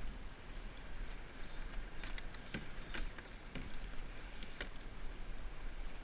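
Kayak out on the water: a steady low rumble with water noise, and a handful of short sharp knocks about two to four and a half seconds in.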